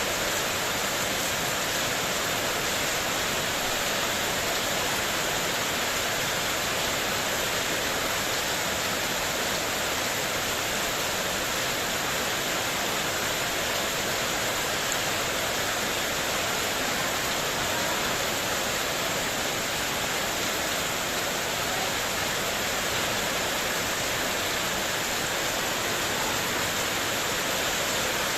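Heavy rain falling steadily on a metal sheet porch roof, a dense even hiss with no thunder or single knocks standing out.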